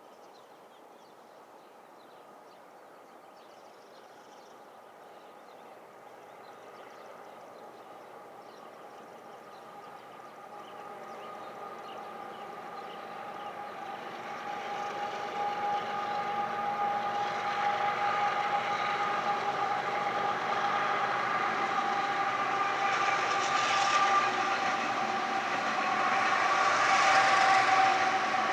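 A train hauled by a long string of diesel-electric locomotives approaching, its engine and wheel noise growing steadily louder with a steady whine running through it.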